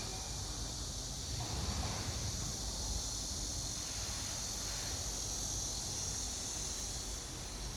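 Insects chirping steadily in a high, continuous drone over a low rumble.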